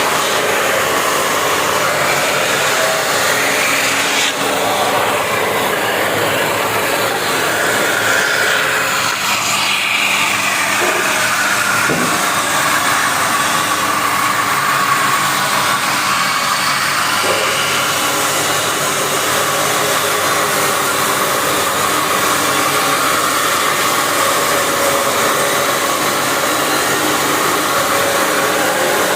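Double-sided wood sanding machine running: a loud, steady whir of motors and sanding belts, with a faint whine that drifts up and down in pitch. There is one short knock about twelve seconds in.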